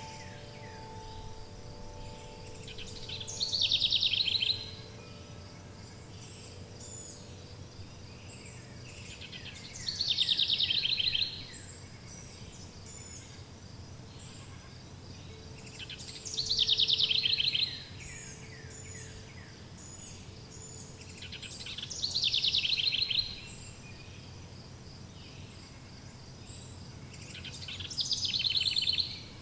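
A songbird repeats the same song five times, about every six seconds, each a quick run of notes falling in pitch and lasting about a second and a half. Underneath is a steady high insect-like trilling and a low hum, with soft wind-chime tones ringing and fading near the start and again midway.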